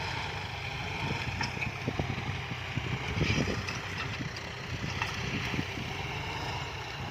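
Diesel engine of a John Deere farm tractor running steadily under load while pulling a six-disc plough, with irregular knocks and clatter that are loudest about three seconds in, as the plough works through ground full of tree stumps.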